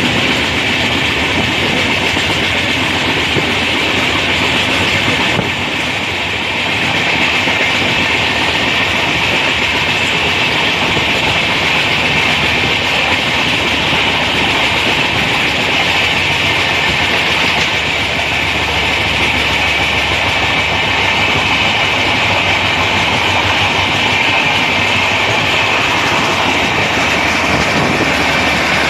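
Steady, loud rolling noise of an Indian Railways express train running along the track.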